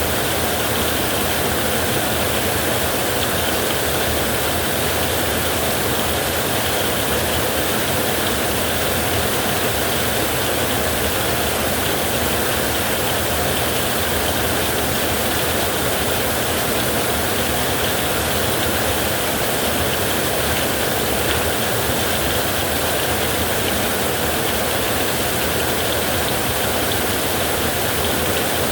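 Heavy rain and storm wind: a dense, unchanging hiss with no breaks or claps.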